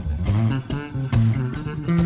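Live jazz-funk band playing: electric guitar lines over moving bass guitar notes and drum hits, from an old cassette tape recording.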